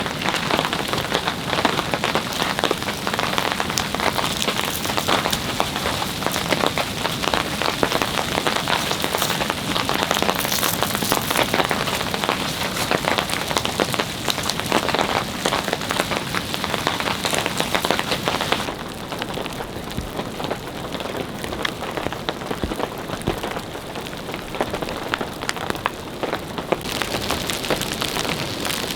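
Steady heavy rain, a dense patter of many drops over a constant hiss. About two-thirds of the way through the sound turns duller and slightly quieter, then brightens again near the end.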